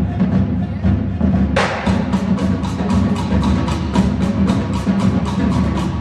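Marching band percussion playing a steady beat of sharp clicks, about four to five a second, which get louder and sharper about one and a half seconds in, over a low steady wash of sound.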